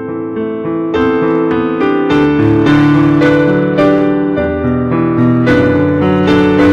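Solo piano music: sustained chords with a melody on top, new notes struck about every second.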